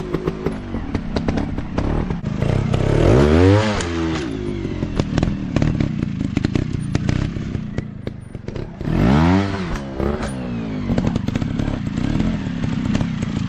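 Dirt bike engine revving up and dropping back twice, about three seconds in and again about nine seconds in, between stretches of lower running, with frequent clattering knocks throughout.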